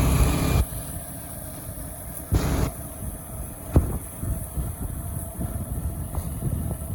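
Low, uneven outdoor rumble of street noise. There is a short burst of louder noise at the start, another a little after two seconds in, and a single sharp click near four seconds.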